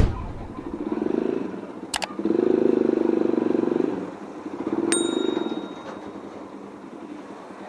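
Motorcycle engine running in three uneven surges, its sound cutting in and out. A couple of sharp clicks and a ringing metallic ding come about five seconds in.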